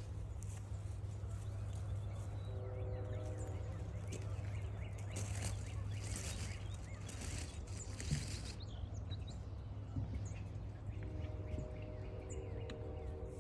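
Woodland trail ambience: scattered high bird chirps over a steady low rumble, with a stretch of rough rustling in the middle and a low steady hum that comes and goes.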